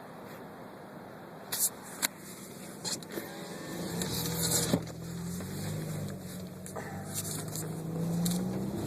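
A few sharp clicks. From about four seconds in, a car engine runs with road noise, its low hum rising and falling in pitch.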